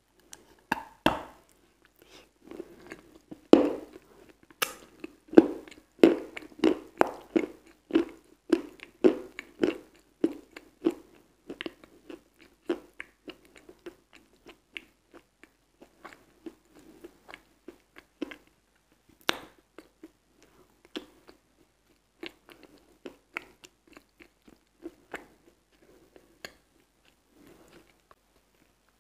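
Close-miked biting and chewing of water-soaked chalk: wet crunches and about two chews a second, loud and dense for the first ten seconds, then softer and more spread out, with one sharp crunch near the middle.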